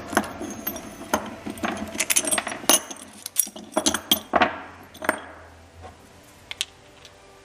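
Small metal parts and tools clinking and rattling as they are handled: a quick run of sharp clinks over the first five seconds, then only a few scattered ticks.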